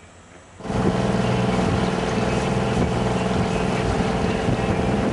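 A boat's engine running steadily under way, with wind and water noise, cutting in abruptly just over half a second in.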